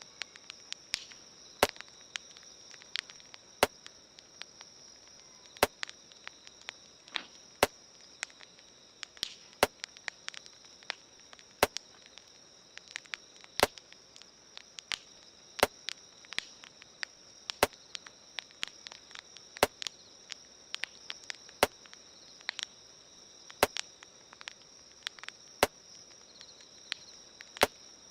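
Campfire crackling: irregular sharp pops and snaps of burning wood, with a louder click repeating evenly about every two seconds, over a steady high hiss.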